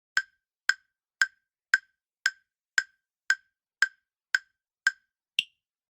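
Countdown-timer ticking sound effect: eleven short, evenly spaced wood-block-like ticks, about two a second, the last tick higher pitched, marking the time left to answer the quiz question.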